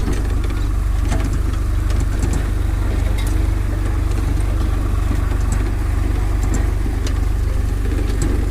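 Swaraj tractor's diesel engine running steadily while it pulls a seed drill sowing paddy, with a few scattered light clicks.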